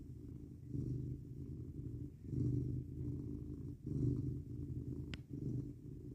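Domestic cat purring steadily, the low rumble swelling and easing with each breath about every one and a half seconds. A brief click sounds about five seconds in.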